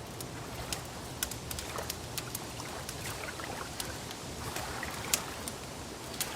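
Wood fire crackling, with irregular sharp pops and snaps, several a second, over a soft steady hush.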